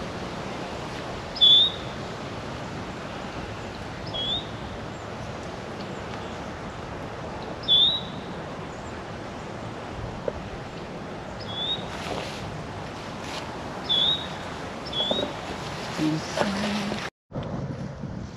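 A bird giving a short, sharp chirp every two to four seconds, six chirps in all, over a steady background hiss.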